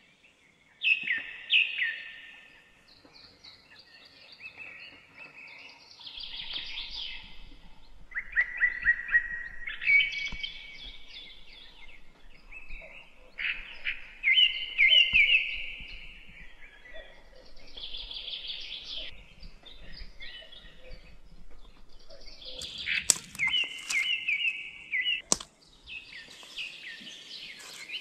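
Wild birds singing: short, bright phrases of quick notes, repeated every few seconds. A sharp click is heard near the end.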